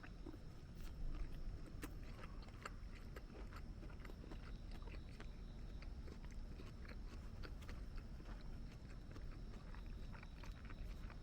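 A person chewing a mouthful of Big Mac close to the microphone: soft, irregular wet clicks of chewing. A faint steady high tone and a low hum sit behind it.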